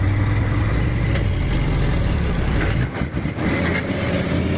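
A heavy truck's diesel engine running hard under load while pulling on a tow cable. About three seconds in it dips briefly with a few knocks, then picks up again.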